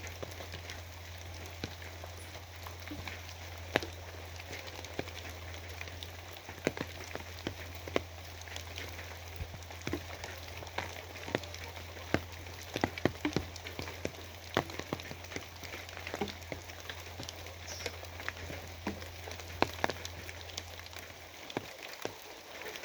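Steady rain falling on a surface, with many sharp, irregular drop taps over an even hiss and a low, steady hum underneath that fades out near the end.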